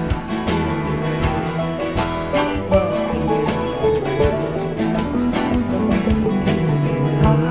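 Instrumental break of a country-style song: guitar playing a melody over a steady beat, without singing.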